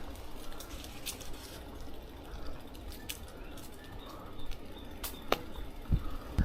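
Bicycle being ridden: low steady rolling noise with a few sharp clicks.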